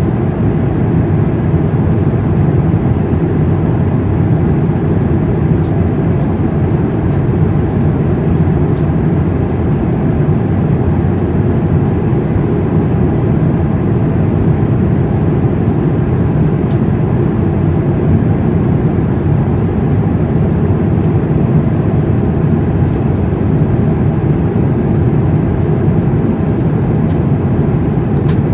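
Steady low rumble of an Airbus A350's engines and airflow heard inside the cabin, even throughout, with a few faint ticks.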